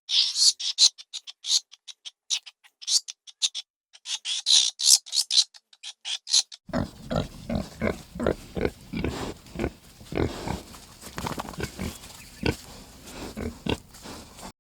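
A quick series of high-pitched squeaks or chirps in short runs, then from about seven seconds in a pig grunting and oinking repeatedly.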